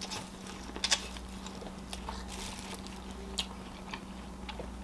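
Close-miked chewing while eating: a few short, sharp mouth clicks and smacks spaced a second or more apart, over a low steady hum.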